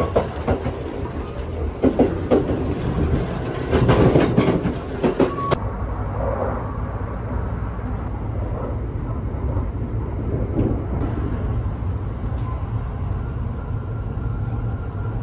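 Running noise of the Kintetsu Shimakaze express heard inside the carriage: a steady low rumble. Knocks and rattles come through it in the first five seconds or so, then stop suddenly, leaving a duller, smoother rumble.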